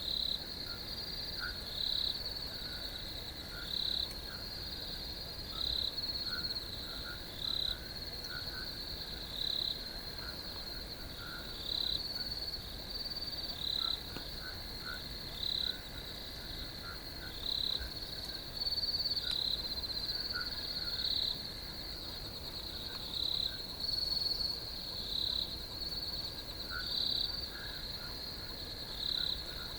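Crickets trilling in a steady high-pitched chorus, with a louder chirp standing out about every two seconds.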